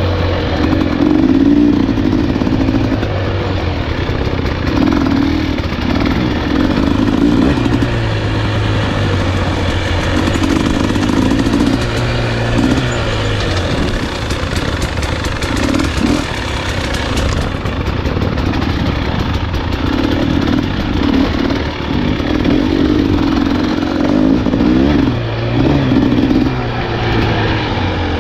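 Husqvarna enduro dirt bike engine running on a trail, revving up and easing off again and again as the throttle is opened and closed, with some clatter.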